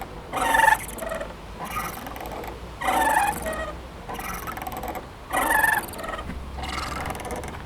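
Playground swing squeaking rhythmically as it swings back and forth, a short wavering creak about every 1.2 seconds.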